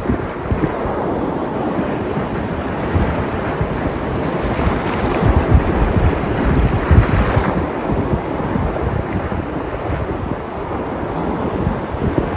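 Sea surf with waves breaking, swelling to a louder surge about five to seven seconds in. Wind buffets the microphone with low rumbles throughout.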